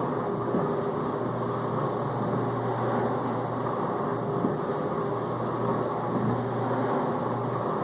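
Whirlpool dishwasher in the circulation phase of its main wash, its pump running with a steady low hum under the continuous rush of detergent water washing inside the tub.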